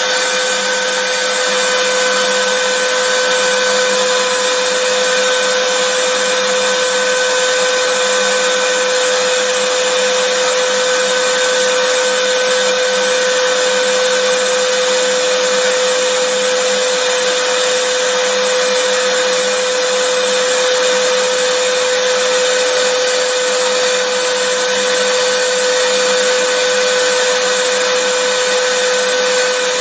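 Vacuum cleaner running continuously: a steady motor whine over a rush of air, with no change in pitch or loudness.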